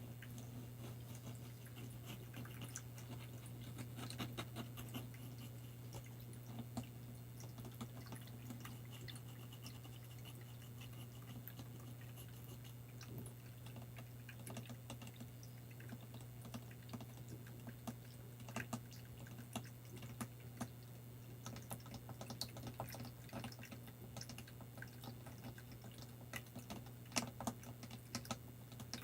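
ASMR tapping and scratching on small props: many light, irregular clicks and taps, coming thicker in the last few seconds, over a steady low hum.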